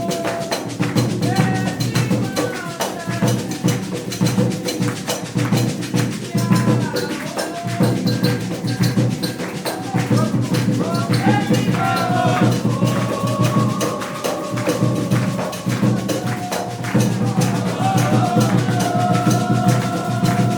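Candomblé ritual music: drums and rattles keep a dense, fast rhythm while voices sing a chant over them.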